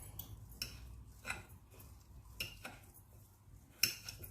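Metal forks clinking and scraping against a dish while pulling apart boiled chicken breast: about five scattered sharp clicks, the loudest near the end.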